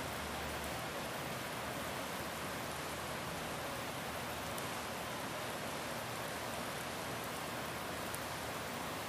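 Steady rain falling, an even hiss that holds level throughout, with a few faint drop ticks.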